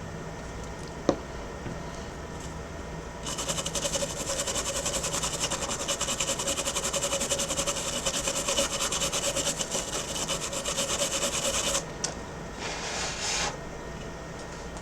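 Rapid scrubbing on a laptop circuit board as soldering flux is cleaned off, with a sharp click about a second in. The scrubbing runs for about eight seconds, stops, then comes back briefly near the end.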